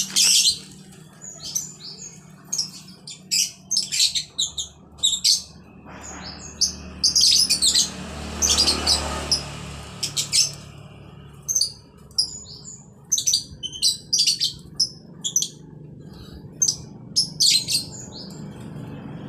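Pet jalak (starling) calling: repeated short, sharp chirps in quick clusters, with brief pauses between bursts.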